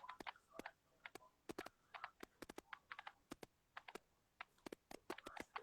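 Faint, sharp clicks and taps at an irregular rate, several a second.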